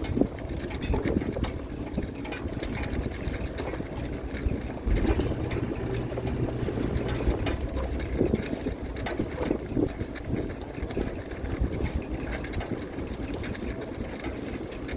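Fishing boat's engine and deck machinery running steadily, with irregular knocks and clatter on deck.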